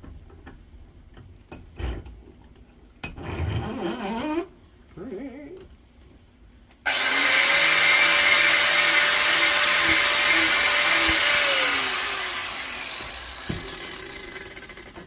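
A few knocks and rattles of a part being handled. Then, about seven seconds in, an angle grinder starts at once and grinds into an aluminium part for about five seconds, as a scratch test of the metal. Its motor note then drops and fades as it is switched off and winds down.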